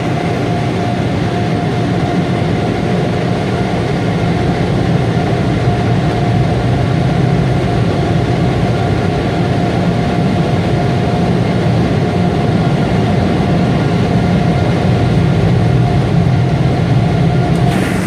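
Automatic car wash machinery running, heard from inside the car: a loud, steady rushing noise with a steady whine through it.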